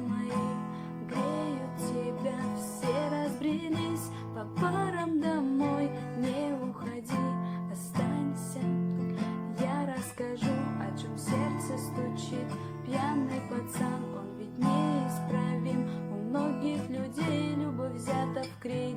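Acoustic guitar strummed in a steady rhythm, with a gliding melody line over the chords.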